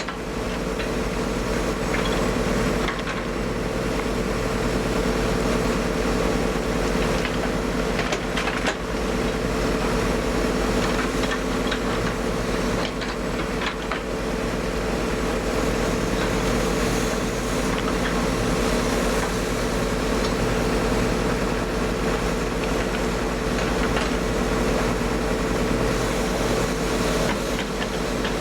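Hyundai 140LC-7A excavator's diesel engine running steadily at working revs, with a few short metallic knocks and clanks from the machine at work.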